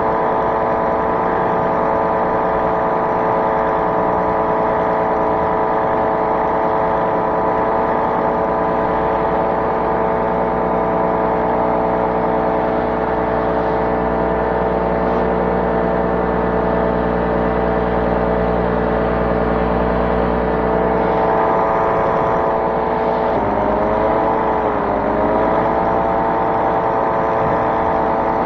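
Small aircraft engine running steadily under power in flight. Near the end its pitch dips and wavers briefly as the throttle is changed, then steadies again.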